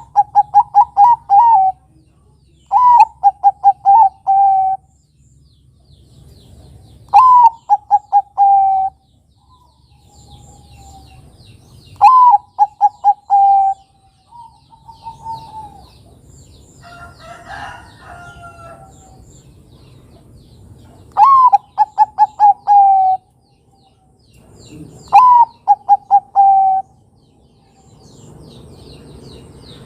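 Zebra dove (Bangkok perkutut) singing: six cooing phrases a few seconds apart, each a sharp rising first note followed by a quick run of short, falling coos. Faint high chirping of small birds runs underneath, and a rougher, different call comes about halfway through.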